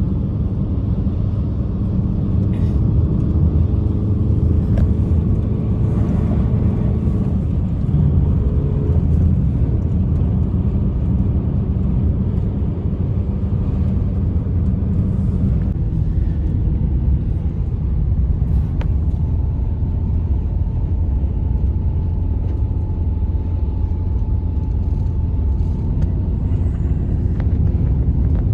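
Strong blizzard wind rumbling steadily, with faint steady whistling tones over it.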